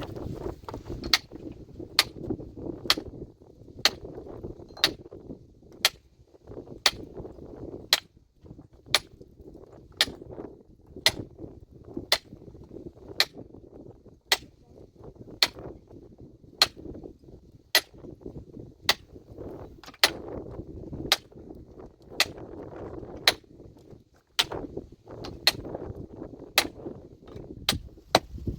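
A metal hand tool striking rock over and over, a sharp ringing hit about once a second in a steady rhythm, breaking up stone.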